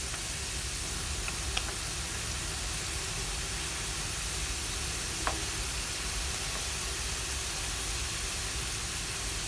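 Spiral-cut potato sticks on wooden skewers sizzling steadily as they deep-fry in hot oil, with a few faint pops; the sizzle stops suddenly near the end.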